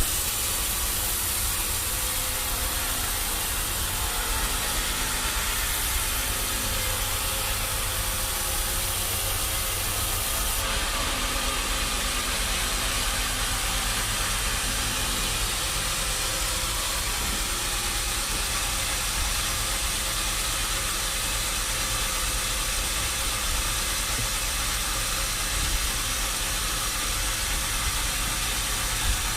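Sawmill machinery running steadily: an engine-driven hum under a constant hiss, with no distinct cuts or impacts.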